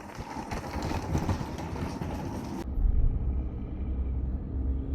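Car driving, with road and engine noise heard from inside the cabin. About two and a half seconds in, the hiss drops out suddenly and a steady low rumble is left.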